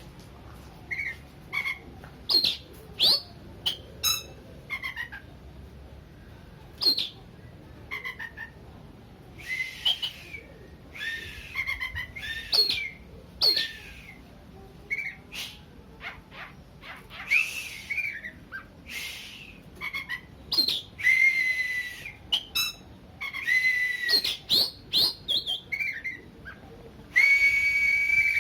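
Oriental magpie-robin (kacer) in breeding excitement, singing a fast run of varied short whistled notes, chirps and harsh notes. Longer held whistles come near the end.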